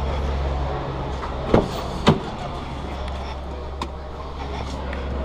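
Car engines idling in a parking garage, a steady low rumble. Two sharp knocks come about a second and a half and two seconds in.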